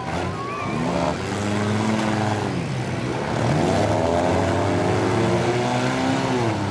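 Demolition derby car engines revving hard, their pitch swooping up and down again and again as the cars shove and ram one another.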